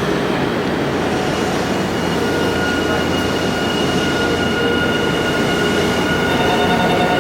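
Nankai Main Line electric train running past the platform: a loud, steady rumble, joined about two seconds in by a thin, steady high whine.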